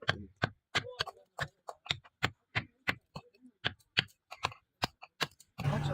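Hammer striking in a steady, even rhythm, about three to four sharp blows a second.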